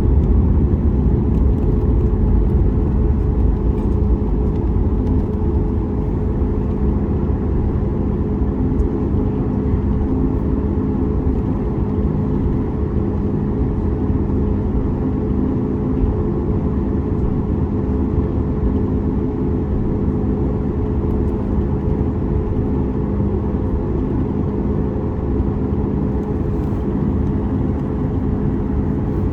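Cabin drone of a Boeing 737 MAX 8's CFM LEAP-1B turbofans running at low power inside the passenger cabin: a steady low rumble with a couple of held tones, easing slightly in the first few seconds and then even.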